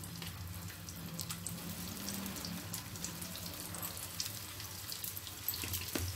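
Soybean and chana dal kebab patties shallow-frying in a little hot oil on a non-stick tawa: a soft, steady sizzle with many scattered crackles as more patties are laid in, over a low steady hum.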